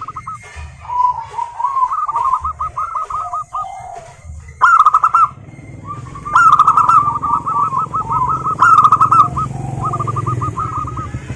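Zebra doves (perkutut) singing: repeated phrases of rapid staccato cooing notes, some phrases overlapping, with the loudest about five, six and a half and nine seconds in. A low steady hum runs underneath from about halfway through.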